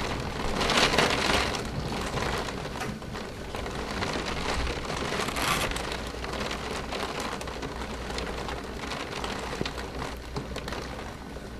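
Heavy rain during a thunderstorm, a dense patter of drops hitting the window glass. It is strongest in the first couple of seconds, then eases off gradually.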